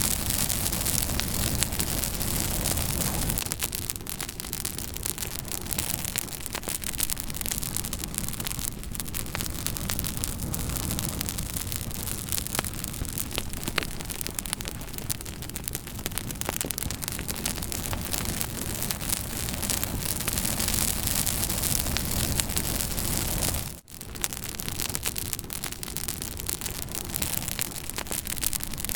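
Campfire burning with a steady hiss and many small sharp crackles and pops, broken by a momentary dropout about three-quarters of the way through.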